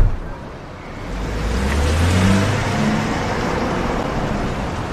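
A car door thumps shut, then a car pulls away, its engine and tyre noise swelling about a second later and slowly easing off.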